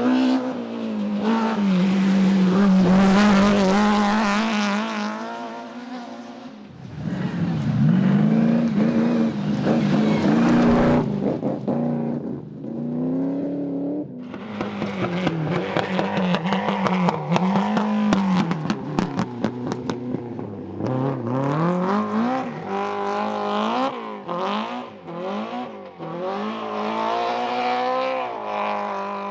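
Rally car engines driven hard, revving up and down through gear changes and lifts off the throttle as cars pass one after another. A run of sharp crackles comes midway.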